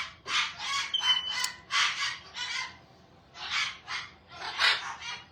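A parrot giving a quick run of short, harsh squawks, about a dozen in groups of two or three.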